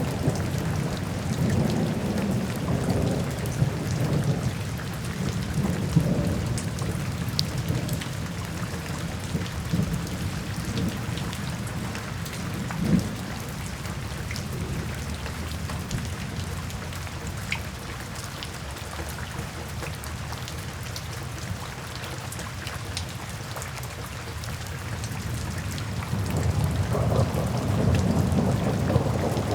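Steady rain falling, with low rumbles of thunder that swell at the start, die down through the middle, and build again near the end. A brief sharp crack of thunder about halfway through.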